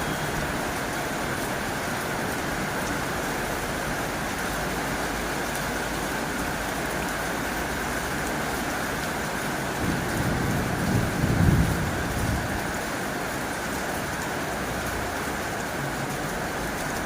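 Heavy rain drumming steadily on a tin roof. About ten seconds in, a low rumble swells for two or three seconds and fades.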